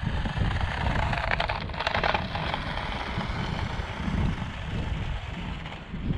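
Wind buffeting the microphone, over the whirr of a small 1/28-scale RC drift car's brushed motor, gears and tyres running on the ground, loudest about two seconds in.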